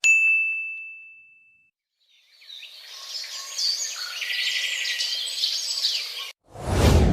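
A single bell-like ding rings out and fades over about a second and a half. Then a chorus of birds chirping runs for about four seconds and cuts off suddenly. Just before the end a loud, low rumbling sound starts.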